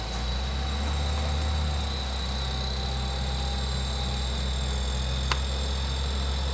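Off-road vehicle engine running steadily at a low, even pitch, with one sharp click about five seconds in.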